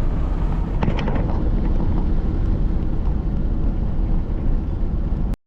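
Steady road and engine noise of a moving car, heard from inside the cabin; it cuts off suddenly near the end.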